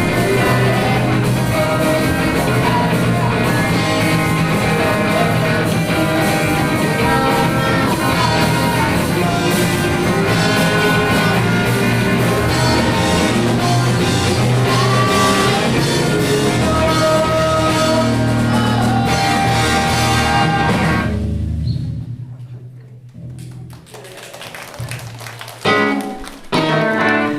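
Rock band playing live, with guitar, drum kit and singing. The music stops about 21 seconds in, leaving only quieter scattered sounds.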